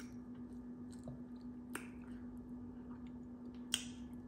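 Close-up chewing of crispy fried chicken wings, with two sharp crunches, about two seconds and near four seconds in, over a steady low hum.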